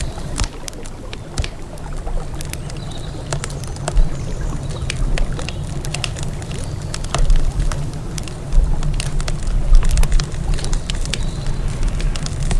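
Campfire crackling, with frequent sharp pops and snaps at irregular intervals, over a steady low rumble that swells louder several times.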